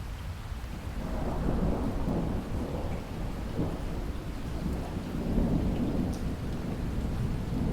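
Steady rain with low rolling thunder that swells about a second in and keeps rumbling.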